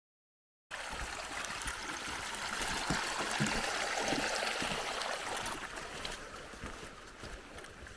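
Running water, a stream flowing, as a steady rushing hiss that swells to its loudest around the middle and then eases off, with a few faint low knocks. It opens on under a second of dead silence.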